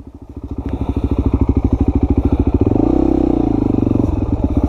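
Honda XR250 single-cylinder four-stroke dirt bike engine revving hard under load. It grows louder about a second in, rises in pitch around the middle, then eases back.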